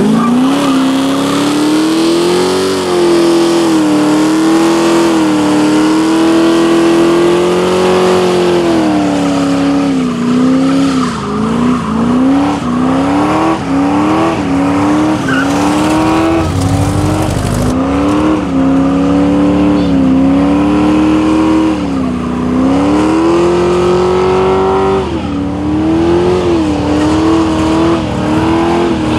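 A muscle car's V8 engine held at high revs during a burnout, its pitch wavering up and down as the throttle is worked, dipping and bouncing repeatedly through the middle, with the tyres squealing.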